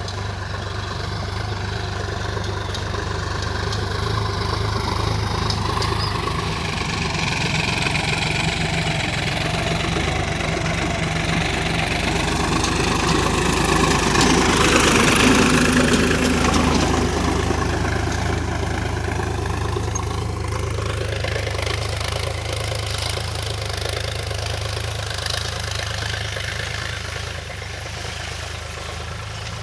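Tractor engine running steadily while ploughing. It grows louder to a peak about halfway through, then fades as it moves away.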